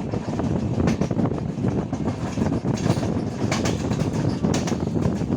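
Passenger train running along the track, heard from a coach: a steady rumble with rapid wheel-on-rail clicks and rattles, a few sharper clacks about one, three and four and a half seconds in.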